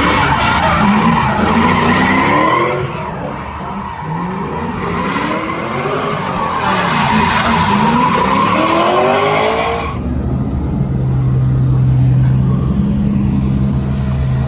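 Drift car engine revving hard up and down with tyres squealing as it slides. About ten seconds in it changes abruptly to a steady low engine idle.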